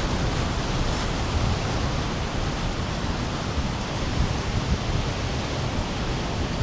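Sea surf breaking and washing up a sandy beach: a steady, unbroken rush of waves.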